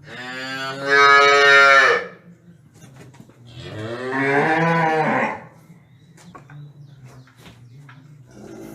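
A cow mooing: two long moos, the first right at the start lasting about two seconds, the second about three and a half seconds in and lasting nearly two seconds. Faint clicks and rustling follow, and another moo begins at the very end.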